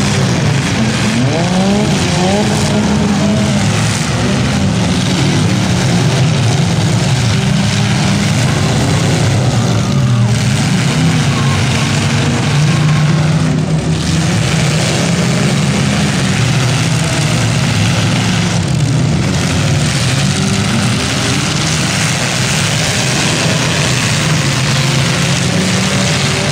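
Demolition derby cars' engines running and revving together in a loud, continuous din, their pitch rising and falling as the drivers work the throttles.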